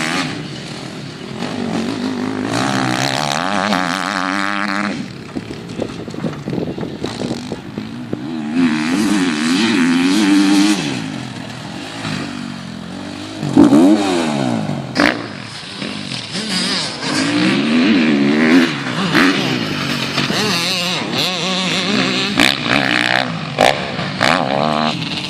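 Motocross bike engines revving, their pitch rising and falling in repeated waves as the throttle opens and closes, with a few sharp clicks among them.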